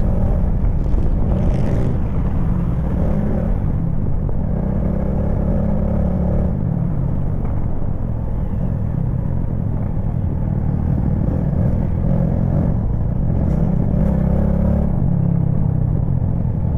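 Motorcycle engine running steadily under way, with a constant low drone of engine and road noise.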